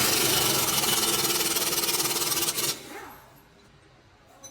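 Impact wrench hammering rapidly and steadily for about two and a half seconds, then cutting off.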